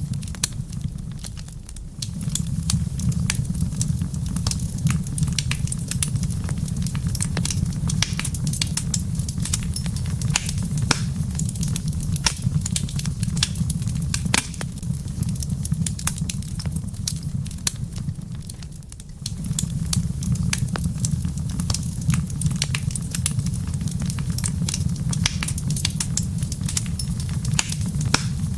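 Wood fire in a fireplace crackling, with irregular pops and snaps over a steady low rumble that dips briefly twice.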